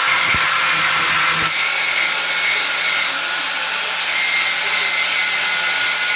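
Electric grinder running with its disc grinding the steel edge of a bolo knife (itak): a steady loud grinding hiss over a constant motor whine, easing off a little about a second and a half in.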